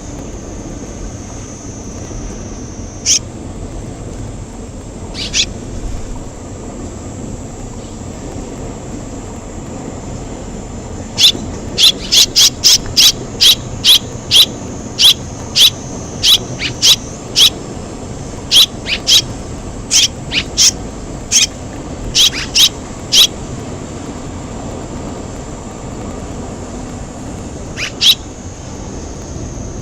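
Swallows at the nest giving short, sharp, high chirps: one or two at first, then a fast run of about twenty over some twelve seconds, then a couple more near the end, over a steady background hiss.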